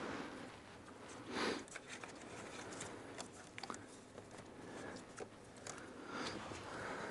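Faint handling noises of hands working on a car's wiring: scattered small clicks and rustles, with one short rasping burst about a second and a half in.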